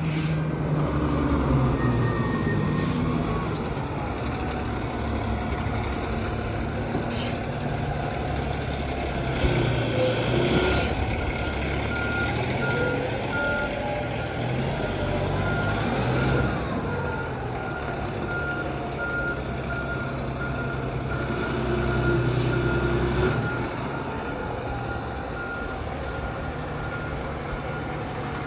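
Fire engine's diesel running steadily, with a short electronic beep repeating at about one a second from about a third of the way in, a few sharp hisses or clicks, and a brief rising-then-falling tone near the middle.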